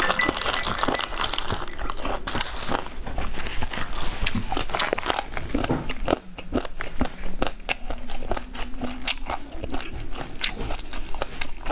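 Close-miked chewing of stir-fried chili peppers: many small, irregular crunches and wet mouth clicks.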